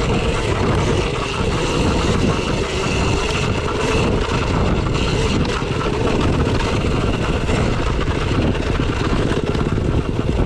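Dirt bike riding along a trail: a steady motor running under a dense rumble and rush of wind and rough ground.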